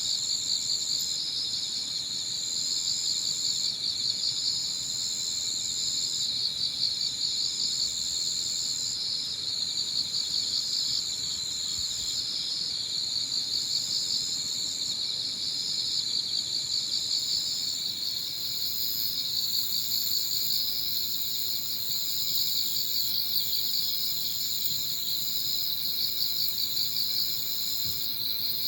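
Evening chorus of crickets and other autumn insects chirping steadily at several pitches, one rapid high trill running continuously while a higher shrill note comes and goes in phrases of a second or two.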